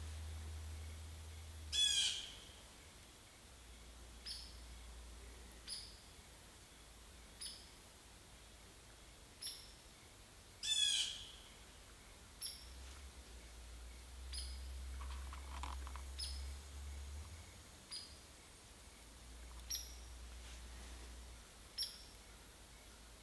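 Wild birds calling: two loud, harsh calls about nine seconds apart, over a run of short high chirps repeated every second or two. A low rumble comes and goes underneath.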